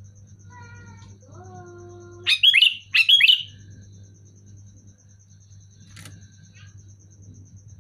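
Sooty-headed bulbul (kutilang) calling: two loud, quick bursts of sharp falling notes about two seconds in, roughly a second apart. Just before them come fainter held whistled tones.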